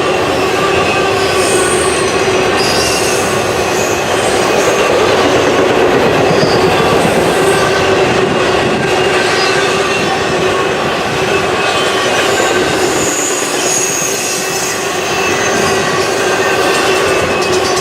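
Freight train rolling past, steel wheels running on the rails, with brief high wheel squeals coming and going.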